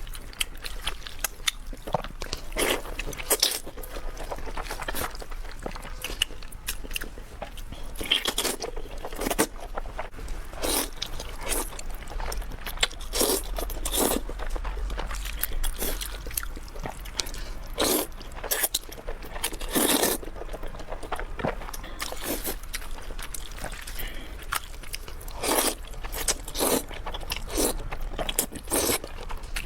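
A person eating close to the microphone: biting and chewing in many short, irregular sounds.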